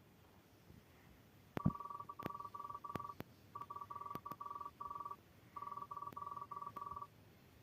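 Electronic beeping at one steady pitch in rapid short pulses, in three runs separated by brief gaps, starting with a sharp click about a second and a half in. Further sharp clicks are scattered among the beeps.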